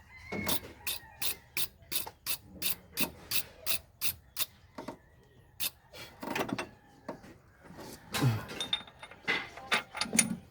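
Rhythmic scraping or rasping strokes, about three a second, turning irregular after about four seconds.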